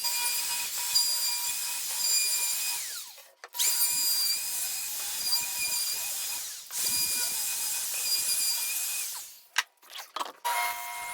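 Handheld electric power tool running in three runs of about three seconds each with a steady whine; the first run winds down as the motor spins down. A few short blips of the trigger follow near the end.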